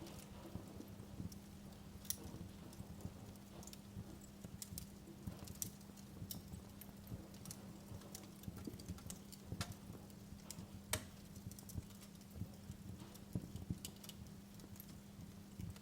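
Wood fire crackling in a fireplace: irregular sharp pops and snaps over a low rumble of the burning logs, with a steady low hum beneath.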